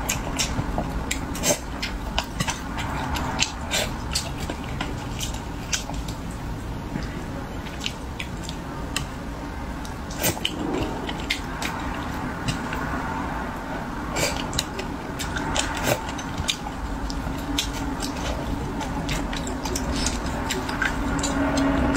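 Close-miked chewing of spicy braised fish: wet mouth sounds with many small irregular clicks and smacks.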